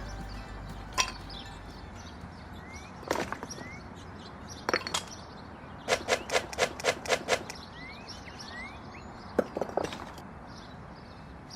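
Sharp knocks of wood being struck, scattered single knocks and short clusters, with a run of about seven quick, even knocks at roughly four a second near the middle. Small birds chirp faintly in the background.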